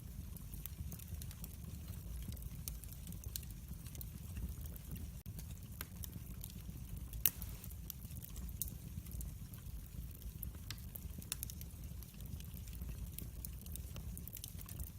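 Wood fire in a fireplace crackling: scattered sharp pops and ticks over a steady low rumble of the flames, with one louder pop about seven seconds in.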